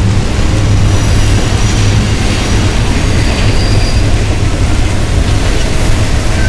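CSX intermodal freight train of container cars rolling across a steel truss bridge: a steady low rumble, with fountain jets splashing below.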